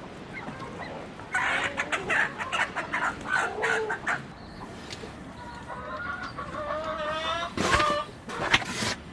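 Chickens clucking and calling, several birds overlapping, with a longer drawn-out call in the second half. Two sharp knocks sound near the end.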